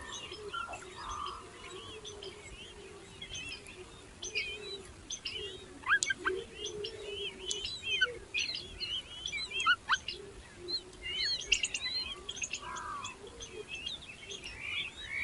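Small birds chirping: a busy run of short, high chirps and slurred whistles, typical of hungry nestlings begging to be fed. The calls thicken from about six seconds in, over a faint steady low hum.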